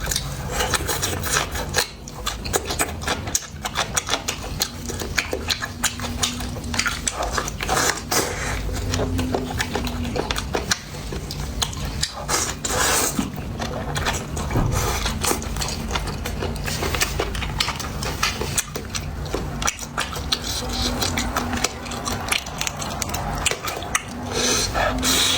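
Close-up eating sounds: steady chewing and mouth noises with many small clicks and taps of utensils against dishes.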